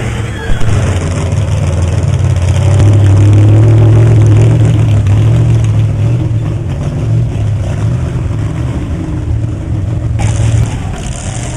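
Big truck engine revving hard under load. It surges about half a second in, is loudest a few seconds in, then eases back.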